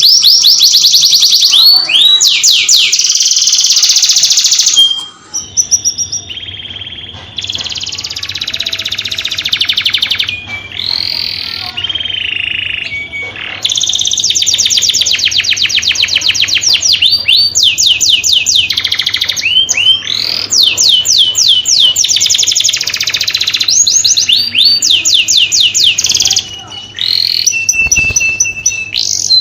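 Male canary singing a long, loud song of rapid trills and rolls, each phrase a quick run of repeated notes lasting a second or two before switching to the next, with a brief lull about five seconds in.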